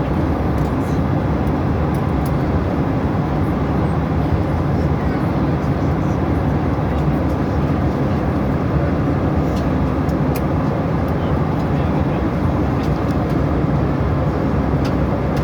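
Steady cabin noise of a Boeing airliner in flight: a constant, low rumble of engines and airflow.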